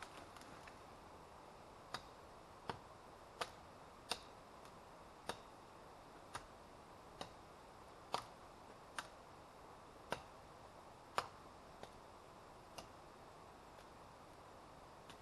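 Wood fire crackling: sharp, irregular pops about once a second over a faint steady hiss.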